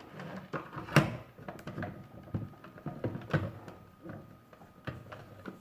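Irregular handling noises: objects being moved about and set down, with scattered clicks and knocks, the loudest a sharp knock about a second in.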